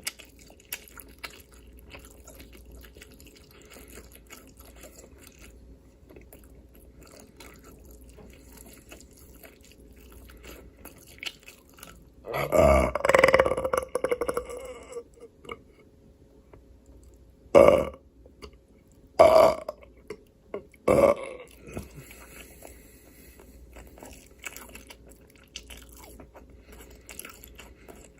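A person eating with faint chewing clicks, then one long, loud burp near the middle that falls in pitch, followed by three short burps about a second and a half apart.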